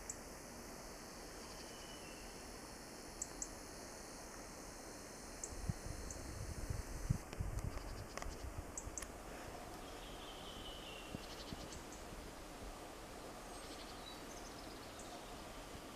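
Spring forest ambience: a steady faint hiss with a few faint bird chirps scattered through. About a third of the way in, a few seconds of low rumbling thumps on the microphone.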